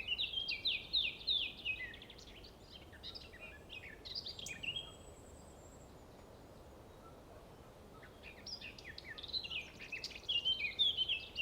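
Birds chirping in quick runs of high notes, in two bouts with a pause of about three seconds between them.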